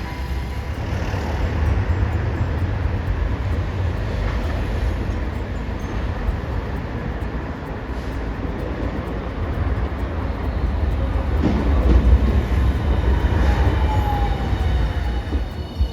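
Hiroshima Electric Railway streetcar running on street track, a steady low rumble of wheels on rail, with a falling whine near the end.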